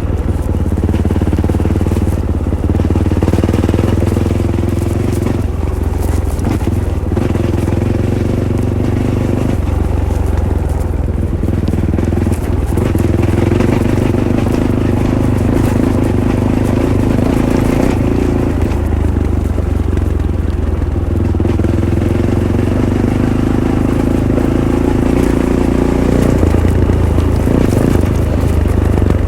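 Fantic Caballero 500's single-cylinder four-stroke engine through its stock Arrow exhaust, running under way. Its note steps up and down several times as the rider works the throttle.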